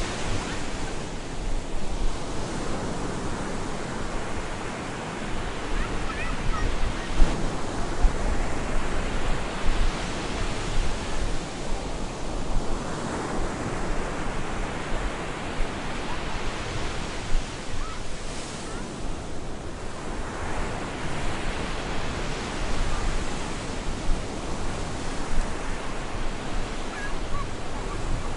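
Stormy ocean surf breaking on a beach: a continuous rush of water that swells as each wave comes in, about every five seconds.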